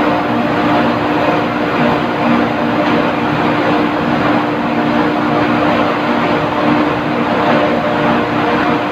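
Loud, steady industrial machinery drone with a constant hum of several steady tones, unchanging throughout.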